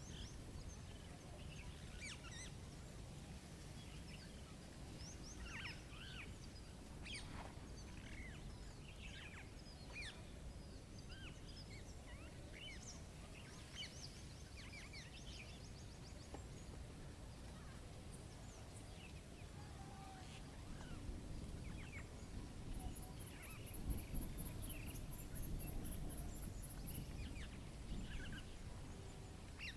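A chorus of birds chirping and calling, many short overlapping calls, over a low steady rumble of background noise. For a few seconds about three-quarters of the way in, a fast, very high pulsing trill joins them.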